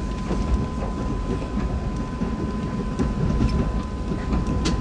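Rumble of an Amtrak Acela Express passenger car rolling on the rails, heard from inside, with scattered wheel clicks and a sharper click near the end. A faint steady high whine sits over it.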